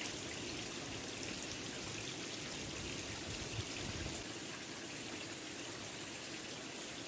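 Steady, even water noise with no distinct drops or splashes.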